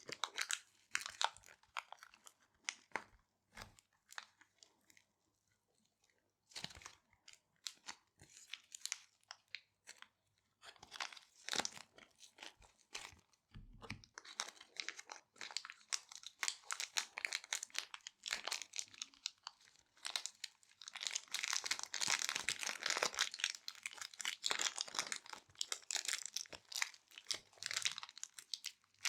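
Small resealable plastic bags being handled, with dense, irregular crinkling and crackling. The crinkling pauses for a couple of seconds after the first few seconds, then returns and grows busiest in the second half.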